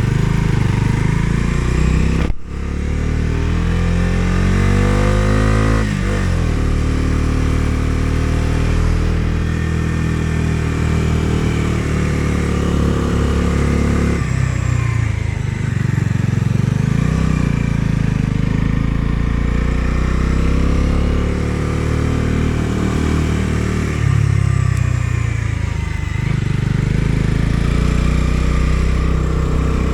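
Bajaj Dominar 250's single-cylinder engine accelerating through the gears, its pitch rising and then dropping back at each gear change, about two, fourteen and twenty-four seconds in.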